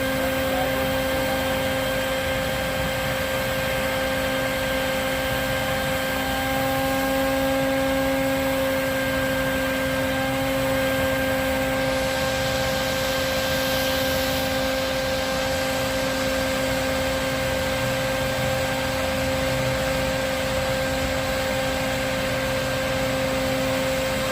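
Vacuum motor running steadily with a constant whine and rushing air through its hose, the kind used to suck bees out of a hive cavity.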